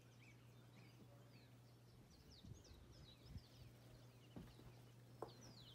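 Near silence with faint birds chirping in short, quick, falling calls, and a few soft thumps about halfway through.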